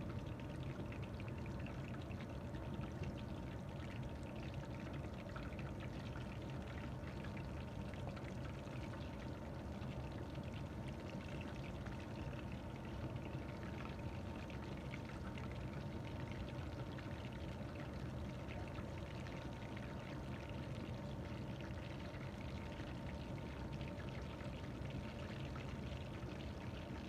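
Chicken drumsticks deep-frying in hot oil: a steady sizzle with fine bubbling crackle throughout.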